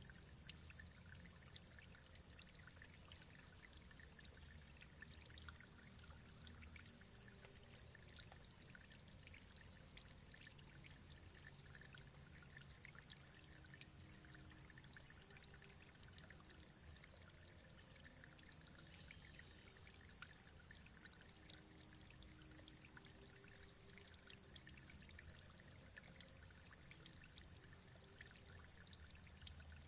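Faint, steady running water, like a small stream trickling and pouring, with many small drip-like ticks.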